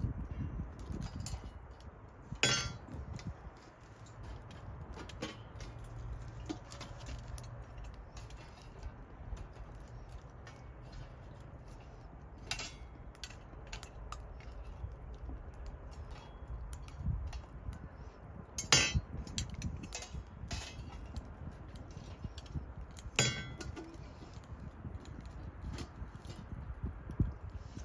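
Tableware clinking: about four sharp clinks that ring briefly, with smaller taps between them, over a faint low rumble.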